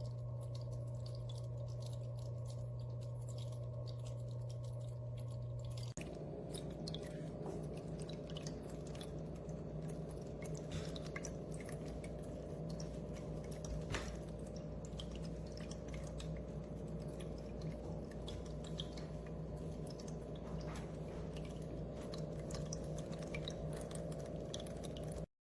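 Electric pet water fountain running: a steady low pump hum with water trickling and dripping. About six seconds in, the hum shifts abruptly to a slightly higher pitch and the drips and small splashes become more frequent.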